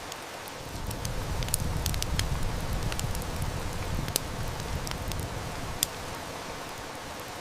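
Steady heavy rain hiss mixed with a wood fire crackling, with sharp snaps and pops scattered through the middle. A low rumble of distant thunder swells about a second in and fades away by about five seconds in.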